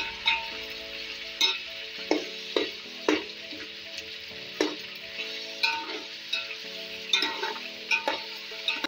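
Chicken sizzling as it fries in oil in a metal pot, stirred with a metal spoon that knocks and scrapes against the pot about fifteen times at an uneven pace.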